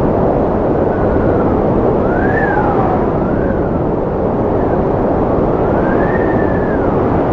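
Strong wind blowing steadily, with a whistling howl that rises and falls in pitch several times.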